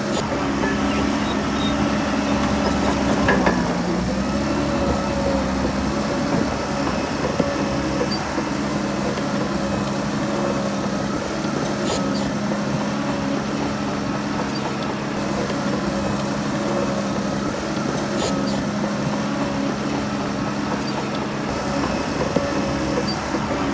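Heavy diesel engine of an earthmoving machine running steadily under load, its pitch dipping briefly about three seconds in. A few sharp metallic clicks sound over it.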